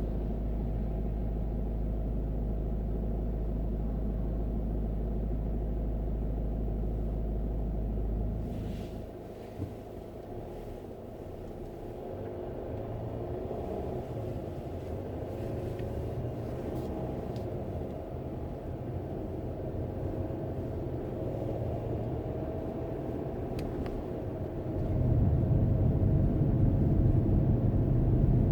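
A car driving, heard from inside: steady low engine and road rumble with faint tones that rise and fall. The low rumble eases off about a third of the way in and grows louder again near the end.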